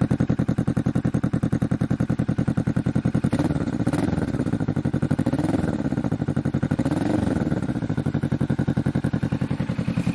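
2020 Kawasaki Vulcan S's parallel-twin engine through a budget aftermarket full exhaust system, idling with an even pulse, then revved up and back down twice from about three seconds in before returning to idle.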